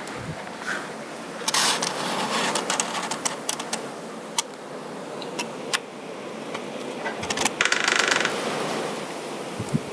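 Canon EF 50mm f/1.8 lens's autofocus mechanism clicking and grinding in irregular bursts, loudest about a second and a half in and again near eight seconds; the lens has been dropped, and the noise is the sign of the damage.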